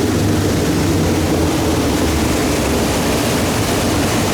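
Quad Mercury 400 outboard engines running steadily on a boat underway, over rushing wind and water. The outer port engine has just run dry of fuel, leaving the other engines running.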